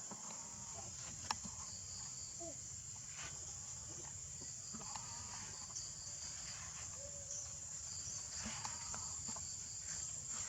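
Steady high-pitched insect chorus of crickets or cicadas, with scattered faint short pitched calls and a single sharp click about a second in.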